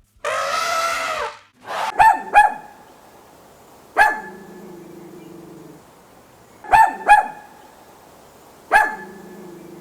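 A dog barking in short, sharp barks in groups of two, one, two and one. A longer, louder sound comes before them in the first second.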